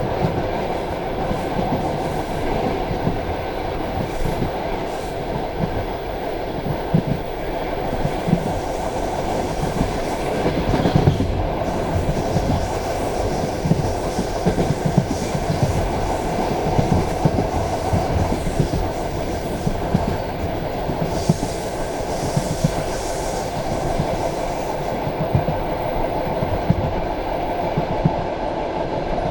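Passenger train carriage running along the track: a steady rumble of wheels on rail, with repeated wheel knocks over rail joints.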